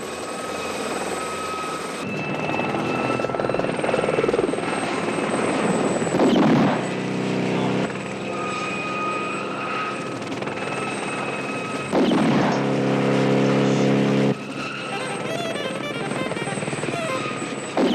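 Helicopter engine whine and rotor noise from a film chase scene. It swells as the helicopter passes, about six seconds in, again near the middle and at the end, with two long low held tones laid over it.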